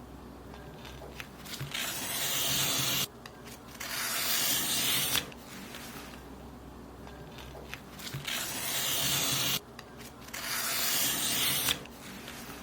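Paper being cut in long, crisp strokes: four strokes of a second or so each, falling in two pairs, with quieter gaps and small clicks between them.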